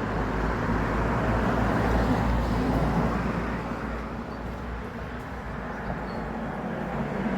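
Road traffic noise: a steady rumble of passing vehicles that swells in the first couple of seconds, eases off in the middle and picks up again near the end.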